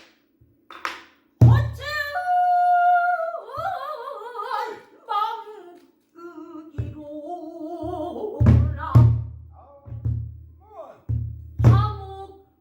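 Female pansori singer singing a sustained, wavering vocal line, accompanied by a buk barrel drum: several deep drum strokes and a few sharp clacks.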